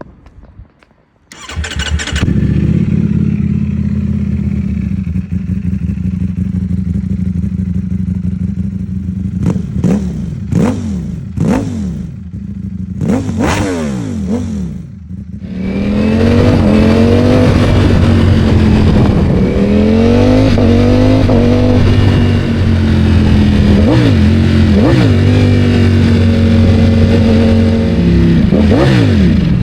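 Ducati Panigale V4 motorcycle's V4 engine with a Termignoni titanium slip-on exhaust being started: it catches about a second and a half in and idles. Then come several quick throttle blips, each a sharp rise and fall in pitch, and after a short lull it runs louder with slower rises and falls in revs.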